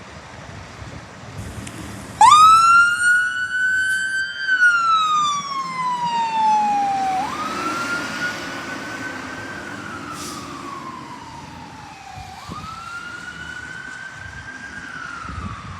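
Fire engine's electronic siren wailing: it starts abruptly about two seconds in, and each cycle rises quickly then falls slowly, three times, with the truck's engine rumbling underneath.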